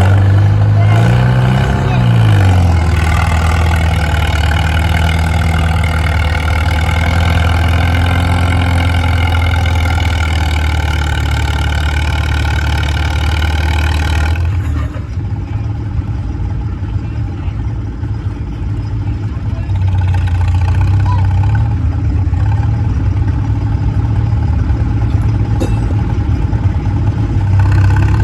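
A tractor-pull tractor's engine running hard at full throttle for about fourteen seconds, its pitch swinging up and down about two seconds in before holding steady, then dropping off suddenly. After that a quieter engine runs on, building up again near the end.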